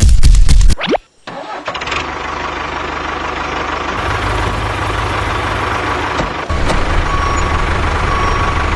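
A very loud, clipped burst, then a motor running steadily, with a low hum under a noisy whir; the level steps up twice partway through.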